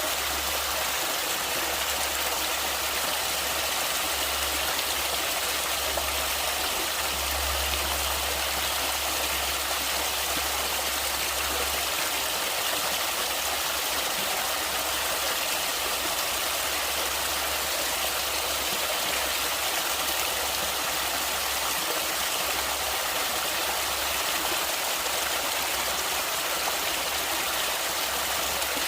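Running stream water, a steady even rush. A low rumble underneath fades about twelve seconds in.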